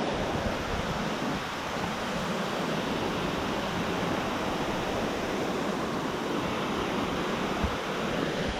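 Steady rushing of water, an even roar with no let-up.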